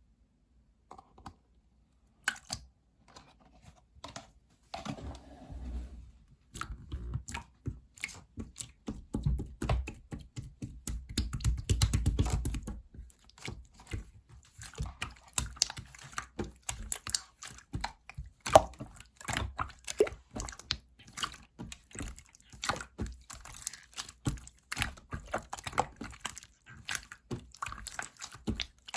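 Clear slime being squeezed, folded and pressed by hand, giving rapid small wet clicks and pops with heavier squishing stretches.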